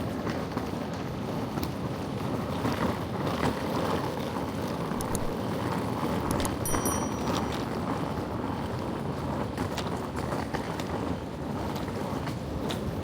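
Steady vehicle and traffic noise with wind buffeting the microphone, with faint scattered clicks and a brief high chirp about seven seconds in.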